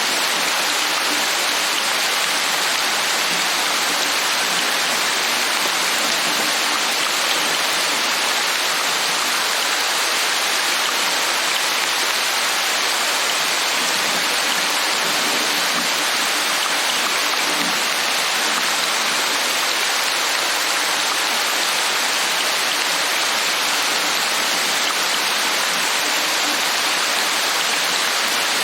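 Steady rain falling, a loud, even hiss with no separate drops or pauses.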